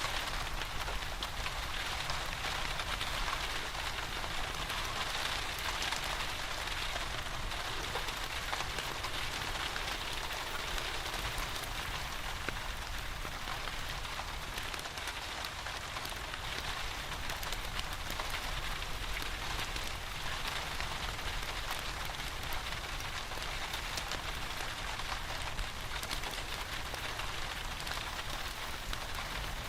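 Steady rain falling, with a fireplace fire crackling softly in short scattered pops.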